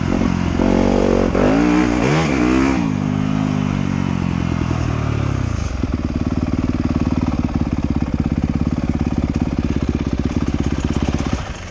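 Trail motorcycle engine revving up and down a couple of times, easing off, then settling into a steady, pulsing idle from about halfway through.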